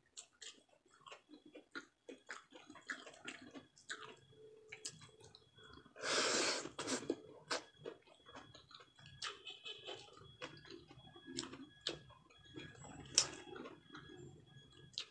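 Close-up eating sounds: chewing, lip smacks and small mouth clicks as fried fish and rice are eaten by hand, with fingers sucked clean. A louder rushing noise lasting under a second comes about six seconds in.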